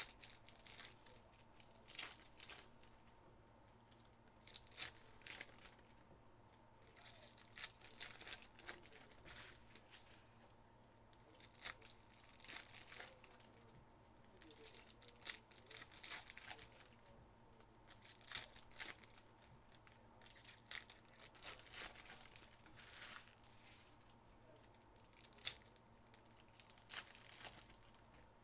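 Faint crinkling and tearing of trading-card pack wrappers as packs are opened and cards handled, in short irregular bursts of crackle.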